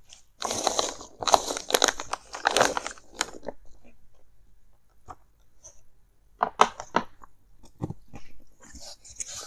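Packaging of headphones being handled close to the microphone: about three seconds of dense crunchy crinkling and rustling, then scattered separate taps and clicks.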